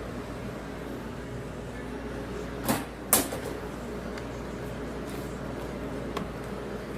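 Two sharp clacks about half a second apart, a little under halfway through, and a fainter one near the end, over a steady hum.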